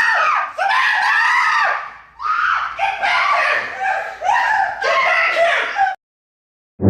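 A person screaming: a run of long, high-pitched shrieks with brief breaks, one of them about two seconds in. The screams cut off abruptly near the end, leaving total silence.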